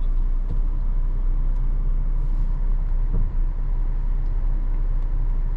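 Steady low rumble of a car heard from inside the cabin, with a faint steady whine and a few light clicks.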